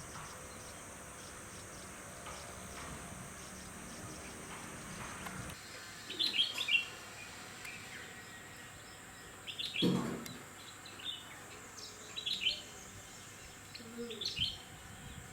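Red-whiskered bulbuls calling in short bursts of quick chirpy notes, about four groups starting some six seconds in. A dull low thud comes with the second group, about ten seconds in.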